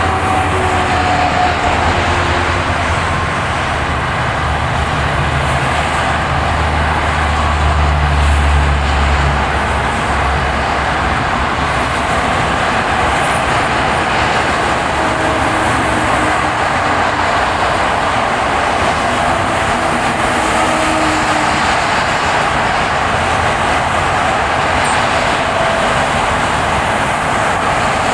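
Steady road and tyre noise of a car being driven, heard from inside the vehicle, with a deep rumble during the first ten seconds that then fades.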